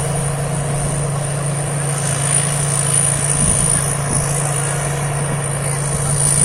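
Rice combine harvester's diesel engine running steadily, a constant low drone, while harvesting.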